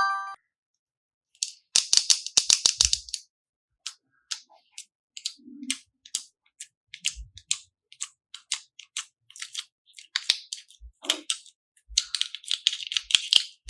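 Slime being squished and handled, giving sticky clicks and crackles: two dense runs of crackling, one about two seconds in and one near the end, with scattered single clicks between.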